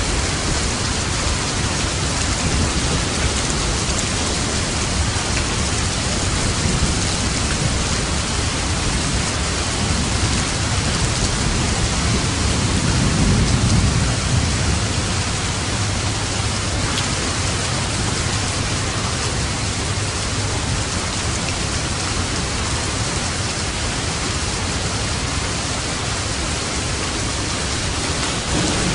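Steady rain with a low rumble of thunder that swells and fades about halfway through.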